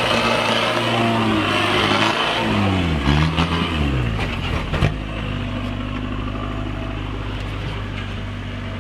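Kubota turbo-diesel engine in a Suzuki Samurai trail rig running, its revs dropping about two seconds in and settling to a steady lower speed. A few sharp knocks come near the middle.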